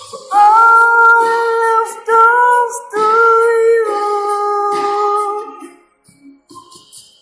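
A solo singer holding long, high, wordless sung notes in a rock ballad, in several sustained phrases. The voice stops about five and a half seconds in, leaving only faint sound.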